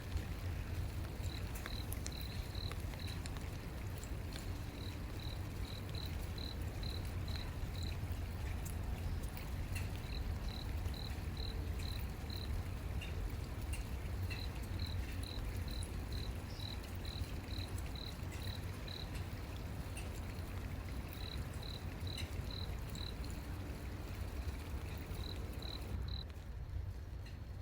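Cricket chirping at night: short pulses at one high pitch, repeated in runs of several with brief pauses, over a steady low rumble. The chirping stops about two seconds before the end.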